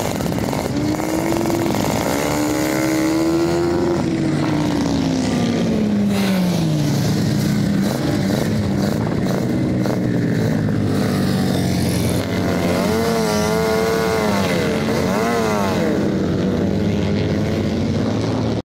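Racing sidecar outfits' motorcycle engines running together: a steady engine drone, one engine's note rising and then falling away a few seconds in, and quick throttle blips rising and falling later on as an outfit pulls away. The audio cuts off abruptly near the end.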